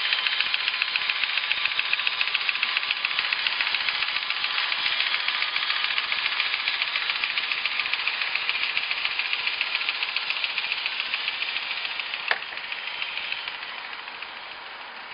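G-scale model train running on its track: a fast, even clatter of motor and wheels that slowly fades, dropping off more steeply about 13 seconds in. A single sharp click sounds shortly before the drop.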